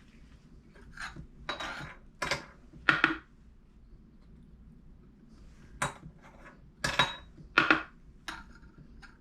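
Coins clinking and clattering as they are dropped one after another, likely by a parrot fetching them. There are several short clinks from about one to three seconds in, then another run from about six to eight and a half seconds in.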